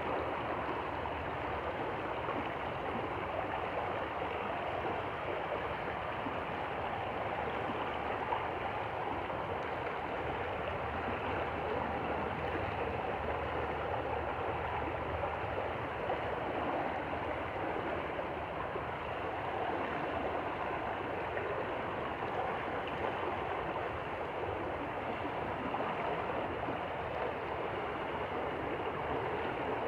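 Stream water flowing in a steady, even rush that does not change.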